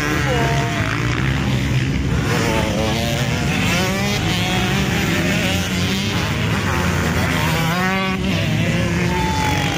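Several motocross bikes racing on the track, their engines revving up and down and overlapping.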